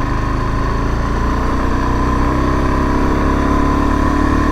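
Suzuki DRZ400S single-cylinder four-stroke engine running steadily under way, its pitch creeping slightly upward in the second half as the bike gathers speed.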